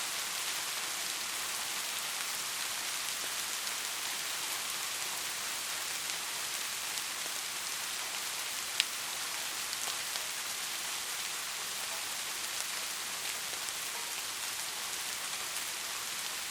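Steady rain falling, an even high hiss with a scatter of individual drop clicks and one sharper drip about halfway through.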